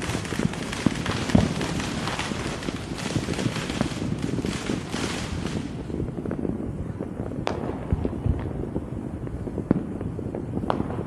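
Fireworks going off: a dense crackling barrage for about the first half, then thinning out to separate bangs.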